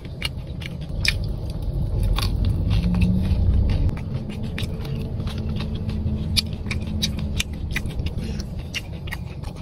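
Close-miked chewing of a crunchy Bento squid snack: irregular sharp crunches and clicks of biting and chewing over a low rumble that swells for a few seconds about a second in.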